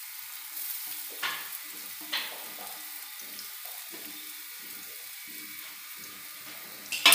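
Hot ghee in an iron kadhai sizzling steadily as grated sweet potato is tipped into it, with a few light clicks. Loud metal knocks come near the end.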